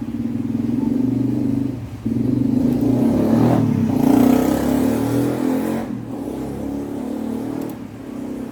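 An engine running, rising to its loudest about four seconds in and easing off after about six seconds.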